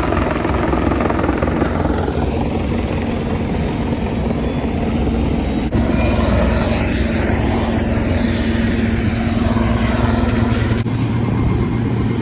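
Helicopter running close by: a loud, steady rotor and engine noise with a constant low hum. The sound changes abruptly twice, about six and eleven seconds in, as if cut between clips.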